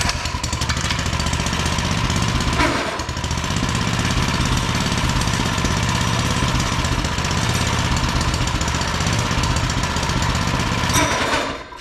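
Doodlebug mini bike's small engine running at idle with a rapid, even firing beat, which the owner suspects is fighting a centrifugal clutch locking up at idle. The sound cuts off suddenly just before the end.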